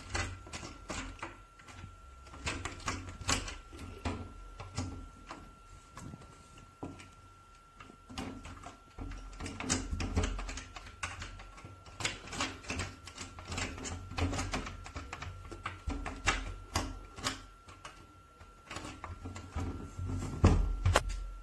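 Rapid, irregular clicking and tapping, many sharp clicks in quick runs, louder near the end, over a faint steady high hum.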